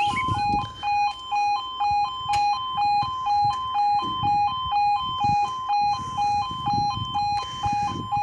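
Level crossing audible warning alarm sounding: a two-note electronic tone alternating about twice a second, the warning that a train is approaching.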